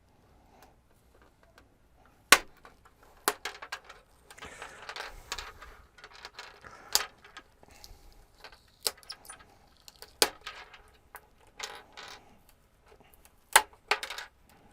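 Small hand tool scraping and clicking against a TV's LED backlight strip, with several sharp clicks spread irregularly as the plastic LED lenses are prised off, and quieter scraping and handling in between.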